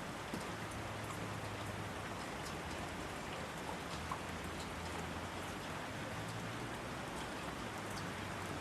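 Steady rainfall: an even hiss of rain with scattered individual drops ticking sharply close by.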